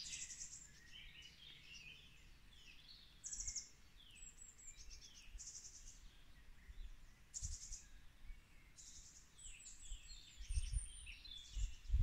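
Songbirds singing, with chirps and repeated short rapid trills, and a few low thumps on the microphone near the end.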